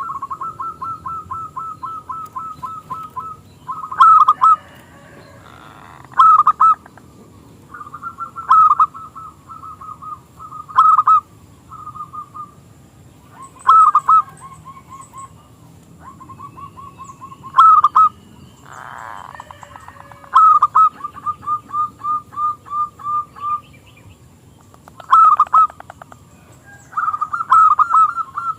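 Zebra dove (perkutut) singing: runs of quick, evenly spaced cooing notes, with louder clusters of strong notes breaking in every two or three seconds.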